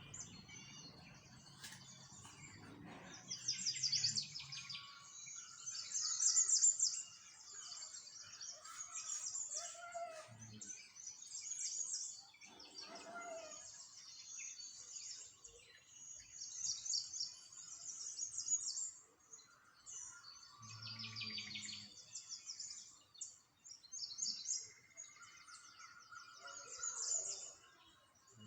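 Small songbirds chirping and twittering in repeated bursts of rapid high trills, with some lower calls between them. A low rumble sounds in the first few seconds and briefly twice more.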